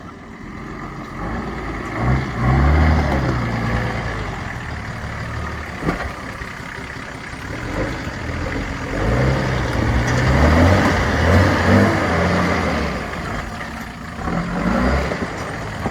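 Four-wheel-drive engine revving in surges as it climbs a rough off-road track: it rises and settles a few times, with one sharp knock about six seconds in.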